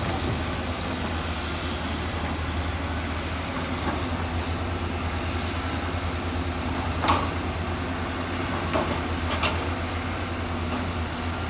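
Heavy diesel machinery running steadily with a low, pulsing engine note. A few sharp metallic clanks come about seven seconds in and twice more near the end.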